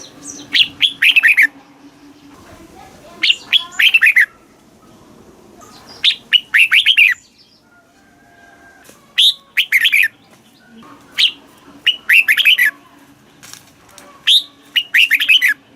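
Red-whiskered bulbul singing: short, bright phrases of quick falling notes, repeated every couple of seconds.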